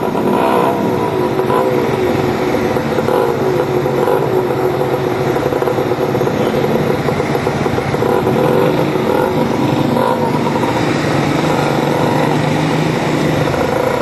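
A 200cc single-cylinder motorcycle engine (Kawasaki Rouser / Bajaj Pulsar) running on the move, its pitch rising and falling as the rider opens the throttle and changes gear, over steady wind and road noise.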